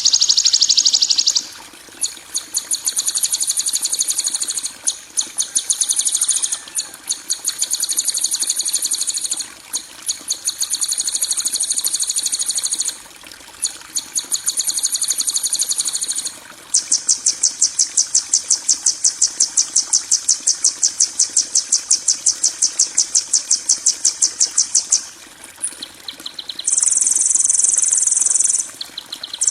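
Harsh, high-pitched buzzing trills, made of very rapid pulses, repeating in bursts of several seconds with short breaks, one long unbroken stretch past the middle. This is 'kasaran' tutor audio, harsh song played to train caged songbirds.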